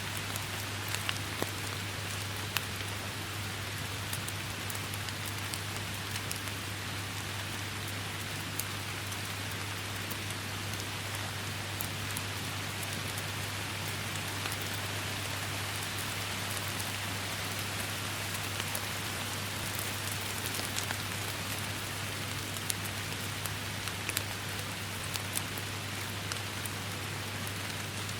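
Steady heavy rain, an even hiss scattered with sharp ticks of individual drops hitting surfaces, over a steady low hum.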